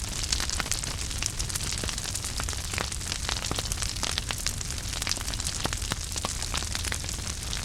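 Wood fire burning in a fireplace: many sharp crackles and pops scattered over a steady hiss and low rumble of the flames.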